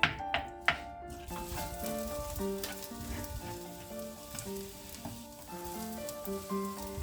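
Food sizzling in a frying pan: a steady hiss that sets in about a second in, after a few sharp knocks, with background music playing over it.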